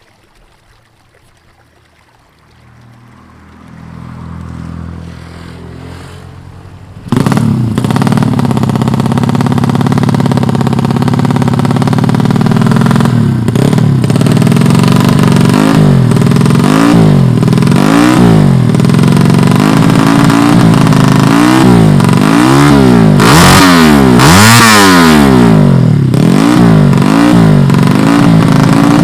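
A 115cc motorcycle racing engine running: faint at first, then suddenly much louder about seven seconds in, holding a steady note before being revved again and again in quick throttle blips, its pitch rising and falling about once a second through the second half.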